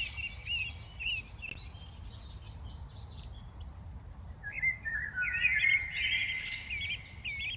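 Several small birds chirping and singing, with a louder run of quick, repeated chirps starting about halfway through, over a low steady background rumble.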